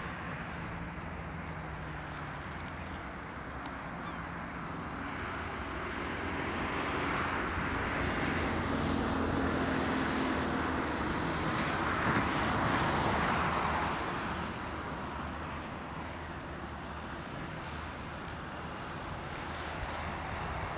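Jet aircraft flying past, its rushing engine noise swelling to a peak about halfway through and then fading away.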